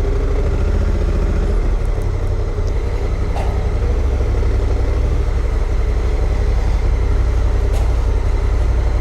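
Honda Africa Twin CRF1100's parallel-twin engine idling steadily, a deep even rumble with no revving.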